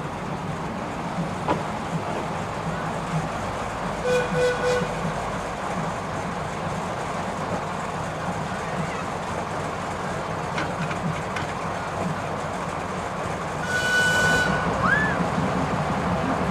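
A narrow-gauge train running, with a steady rumble throughout. Two brief high-pitched tones break through it, one about four seconds in and a louder one near the end, followed by a short rising squeak.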